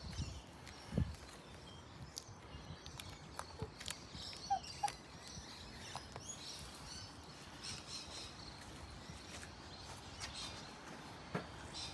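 Faint outdoor ambience with small birds chirping now and then, and a few light clicks and taps.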